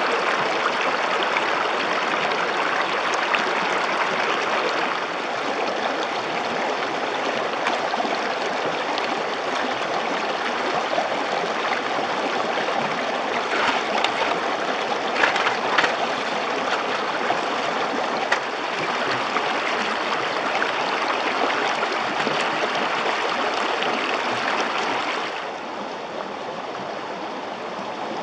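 River water rushing over stones, a steady hiss, with a few short clicks near the middle. About 25 seconds in the sound drops, quieter and duller.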